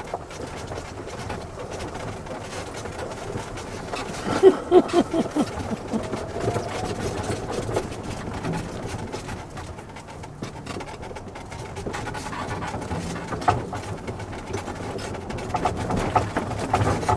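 Golf cart running steadily as it drives, a constant low motor hum, with a short run of quick pulses about four seconds in.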